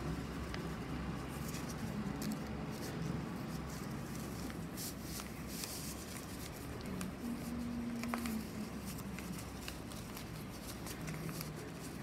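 Sheets of paper rustling and being creased by hand in soft, scattered bursts while a paper airplane is folded.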